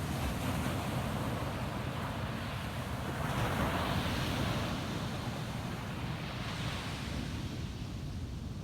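Ocean waves breaking and washing up a sandy beach, one surge of surf swelling about three seconds in and then easing off, over a steady low rumble of wind on the microphone.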